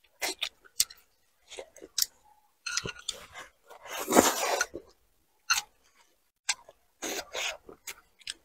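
Close-miked eating sounds: a person chewing and smacking on saucy food, with irregular short wet clicks, and a longer, louder slurping bite about four seconds in as food goes into the mouth.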